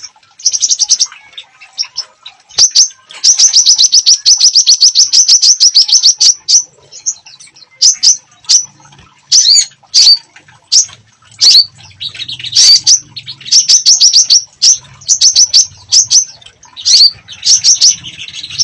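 A songbird singing vigorously: loud, rapid trills of high repeated chirps alternating with single sharp, sweeping whistled notes. A faint low hum sits under the song in the second half.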